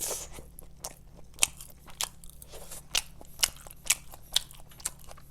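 Close-up chewing of KFC Chizza, a fried chicken base topped like a pizza, with irregular crisp crunches from the breaded crust several times a second.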